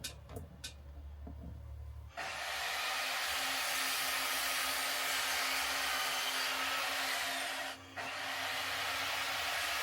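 A motor-driven tool with a steady rush of air switches on about two seconds in and runs evenly, with a brief drop near eight seconds before it carries on. Before it starts there are a few faint clicks over a low hum.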